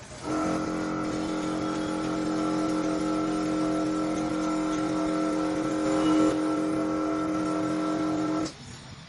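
A small electric motor, such as a power tool's, running at one steady pitch for about eight seconds. It starts abruptly just after the beginning and cuts off near the end.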